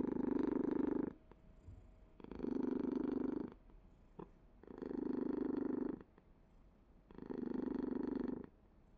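A cat purring close up, in four surges about a second long each, roughly every two and a half seconds, with quieter pauses between.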